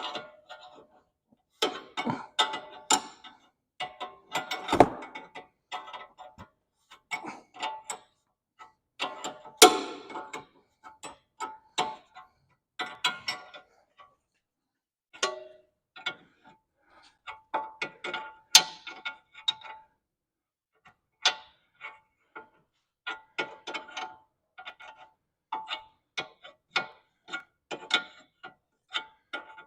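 A hand ratchet and metal sockets: sharp ratcheting clicks and clinks of steel tools, irregular at first, then a steady run of clicks from about two-thirds of the way in.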